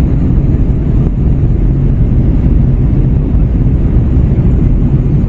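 Steady, deep cabin noise of an Airbus A321 in flight during descent: airflow over the fuselage and the hum of its CFM56 engines, heard from inside the cabin, even throughout with no distinct events.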